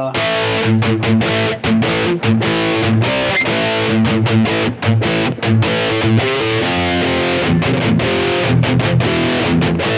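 Electric guitar played through a Boss GT-1000 modeller on a high-gain distorted rhythm patch built on its Orange amp model: a riff of chugging chords cut by many brief stops.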